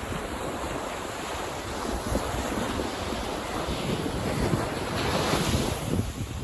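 Sea waves breaking and washing in, a continuous roar of surf that swells to its loudest about five seconds in, then eases.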